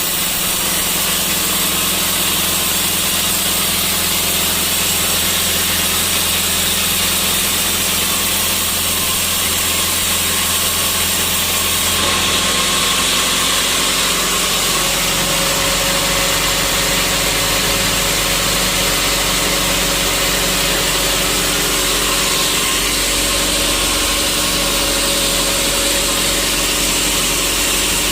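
Sawmill machinery running steadily, with a dense hiss over a low motor hum; its tones shift in pitch about halfway through.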